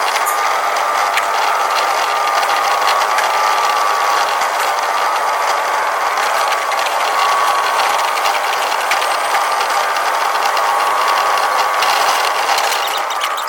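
Tokyu 5050 series 4000-subseries electric train running, its sound sped up to double speed: a steady rush of wheel and track noise with a wavering whine and a rapid run of clicks.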